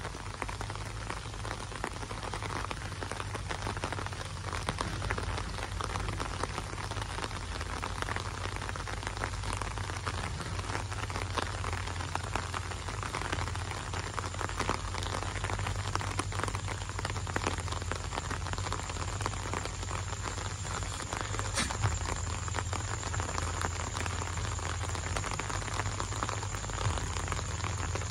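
Gentle rain falling steadily: a dense, even patter of raindrops.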